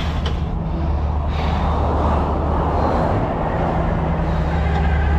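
Tow truck driving on the road: a steady low engine drone with tyre and wind noise that swells a little about a second and a half in.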